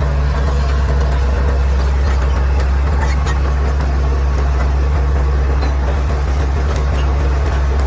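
Caterpillar D6R XL bulldozer's diesel engine running steadily, a deep even hum with a few faint clicks over it.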